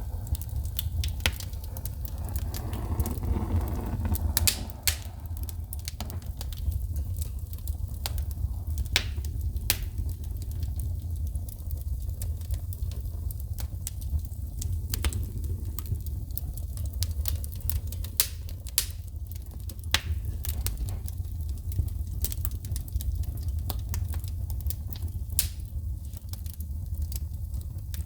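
Wood fire in a fireplace crackling, with irregular sharp pops and snaps from shooting sparks over a low steady rumble.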